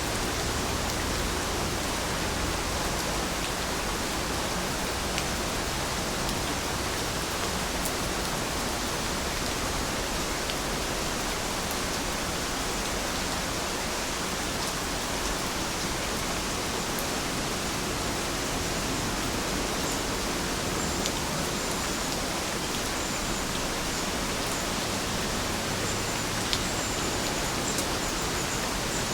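Steady rain falling, a dense even hiss of drops with a few faint separate drips.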